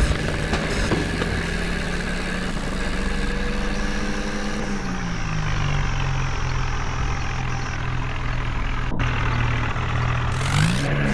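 Tractor engine running steadily. Its speed drops slightly about halfway through, and it revs up and down briefly near the end.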